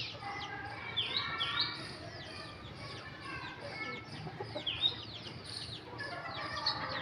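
A flock of desi chickens calling, with clucking under many short, falling, high peeps that overlap throughout.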